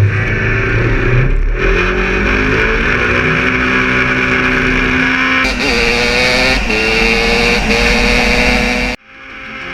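A vehicle engine accelerating hard, its pitch climbing and stepping through several gear changes, then cutting off abruptly near the end.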